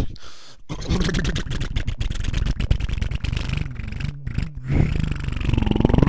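Car engine running with a rapid, rough rumble, the revs rising near the end as it pulls away.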